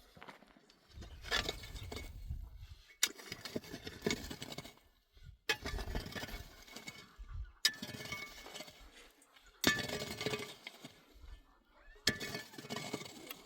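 Sharp clinks of hard objects striking, five times at intervals of about two seconds, with rustling and handling noise between them.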